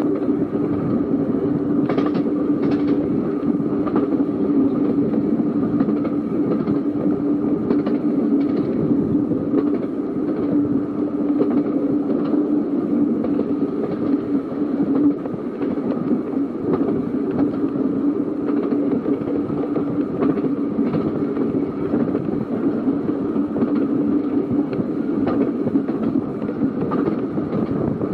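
Seaton Tramway narrow-gauge electric tram running along the track, a steady running noise with a hum, and wheels clicking over rail joints now and then, sometimes in pairs.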